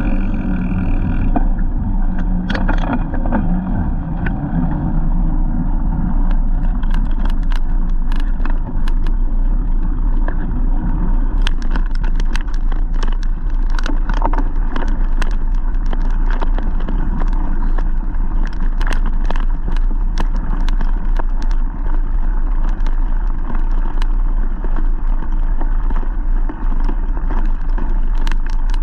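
Steady wind and road rumble from riding a bike, heavy at the low end, with frequent sharp clicks and rattles from about two seconds in.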